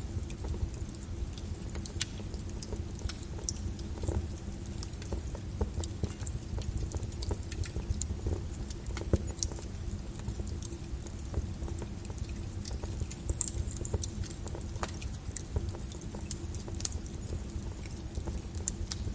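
Wood fire crackling in a fireplace, with many irregular sharp pops over a low steady rumble.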